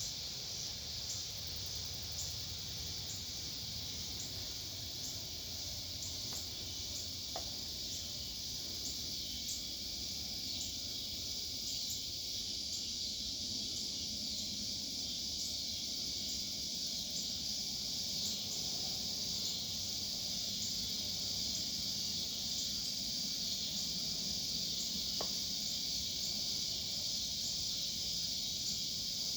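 Steady high-pitched insect chorus with a faint pulsing, over a low rumble.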